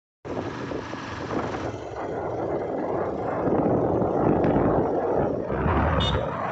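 Wind rushing over the microphone on a moving motorcycle, with road and engine noise underneath. A brief high-pitched tone sounds about six seconds in.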